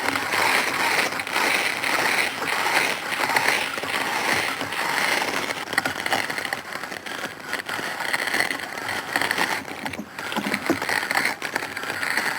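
Cartoon sound effects: a continuous dense rattling clatter of quick knocks and scrapes.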